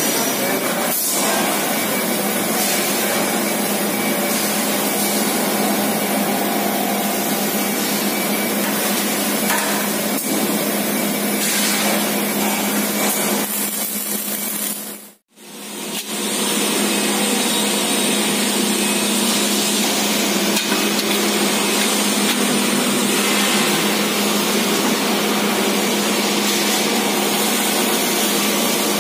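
Steady, loud din of factory metalworking machinery with a constant low hum and faint taps. It drops out abruptly for about a second halfway through, then resumes unchanged.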